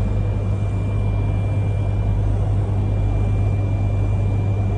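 Tohoku Shinkansen train running at speed, heard from inside the passenger car: a steady low rumble with a faint constant high whine.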